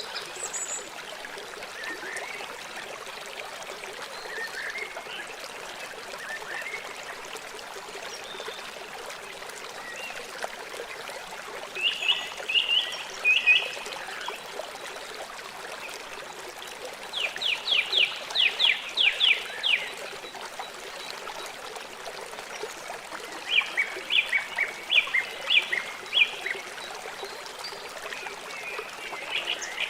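River water flowing steadily. A bird sings over it three times, each a quick run of rapid repeated high notes, the middle run a fast trill of about ten notes.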